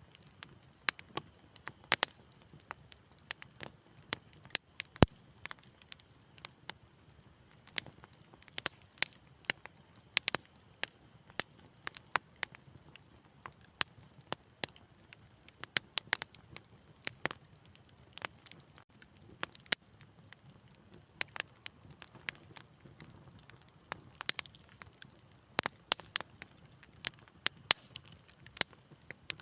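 Wood fire crackling: irregular sharp pops and snaps, several a second, over a faint low hiss of burning.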